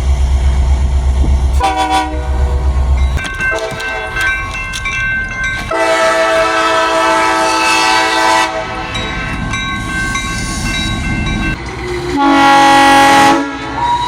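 Multi-note air horn sounding a chord: a short blast, then a long drawn-out sounding that swells in the middle, then a final loudest blast near the end. A low engine rumble underneath stops after about three seconds.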